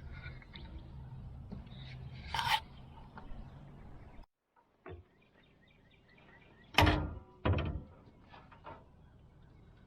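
Metal clunks and knocks at a Lang 84 Deluxe steel offset smoker as a brisket is loaded and a water pan set in under it: one knock about two and a half seconds in, then, after a short silence, two loud clunks about seven seconds in, half a second apart, followed by light taps.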